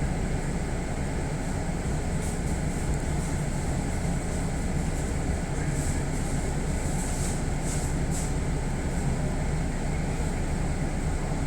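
Steady hum of a stationary Kintetsu electric train's onboard equipment, such as air conditioning and auxiliary machinery, running while the train is held for an inspection. A few faint high ticks come through now and then.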